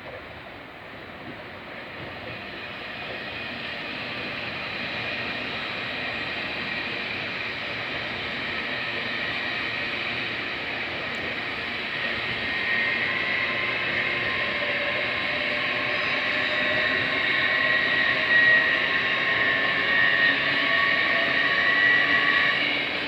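Approaching train, a steady rumbling hiss that grows gradually louder, with a few steady whining tones coming in over the second half.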